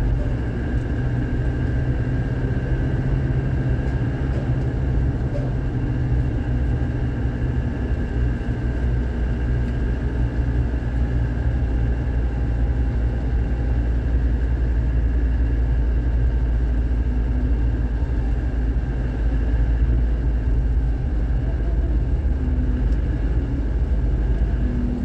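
Isuzu Panther's engine and road noise heard from inside the cabin: a steady low rumble while the car creeps along in slow, jammed traffic, with a faint steady whine above it.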